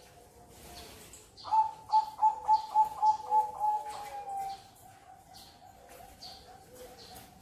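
A zebra dove (perkutut) cooing: a loud, rapid run of about eight pulsed coos that trails into a longer, slightly falling note, starting about a second and a half in. Other doves coo faintly and small birds chirp in the background.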